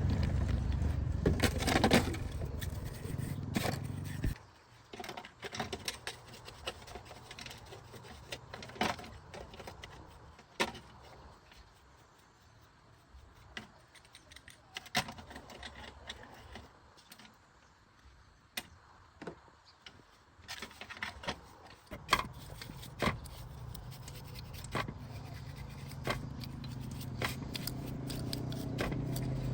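Scattered metallic clicks, taps and scrapes of tools and small metal parts being handled during generator repair work. A low rumble underlies the first four seconds, cuts off, and returns and grows louder near the end.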